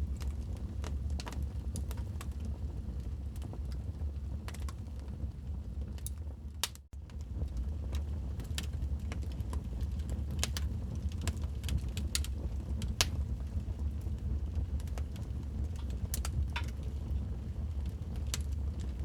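Wood fire crackling in a fireplace: frequent, irregular sharp pops and snaps over a steady low rumble. The sound dips out for a moment about seven seconds in.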